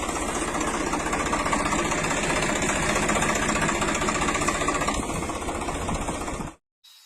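An engine running steadily with a fast, even knocking pulse. It cuts off abruptly near the end.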